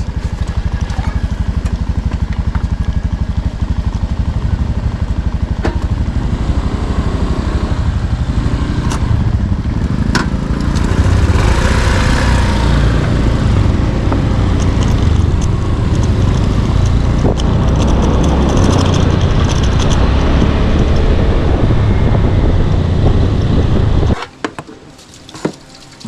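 Motorbike engine running at riding speed with road and wind noise, steady and loud, swelling briefly a little before the middle, then cutting off suddenly near the end.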